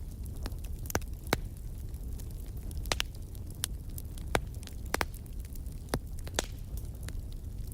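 Wood fire burning in a fireplace: irregular sharp crackles and pops, about eight loud ones, over a steady low rumble.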